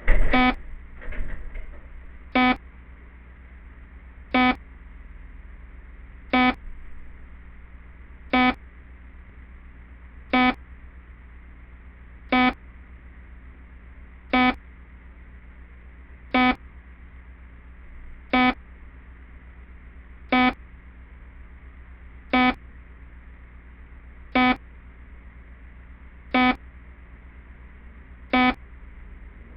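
A loud thud with a few smaller knocks just after it, then a security camera's sound alarm set off by the noise, giving one short electronic beep every two seconds over a steady electrical hum.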